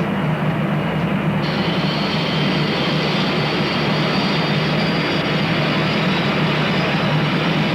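Large jet airliner's engines running loud and steady, with a high whine joining about one and a half seconds in.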